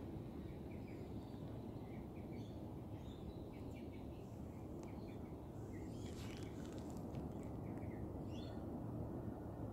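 Birds chirping in short, scattered calls over a steady low background noise, with a brief rustle about six seconds in.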